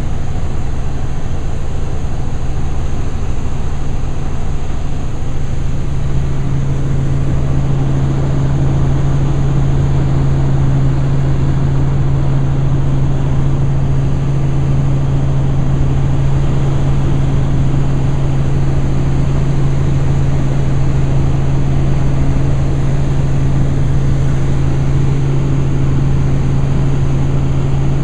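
Helicopter in flight: the steady, loud drone of its engine and rotor, with a low hum that grows a little stronger about six seconds in.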